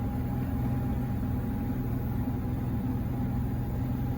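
Steady vehicle rumble: an engine running with a constant low hum and a thin, steady whine above it.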